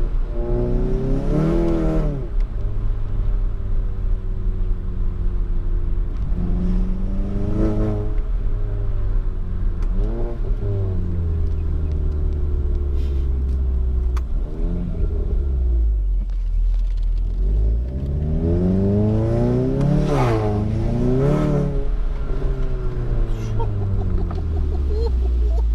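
Turbocharged four-cylinder engine of a Volkswagen MK7 GTI with a catless downpipe and Stage 3 tune, pulling hard several times: the pitch climbs and falls back again and again through the gear changes, with the strongest run of rising and falling about three-quarters of the way through. Steady exhaust and road rumble lies underneath.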